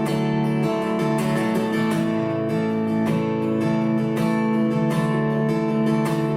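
Acoustic guitar strummed in a steady rhythm, playing the instrumental intro of a slow song before the vocals come in.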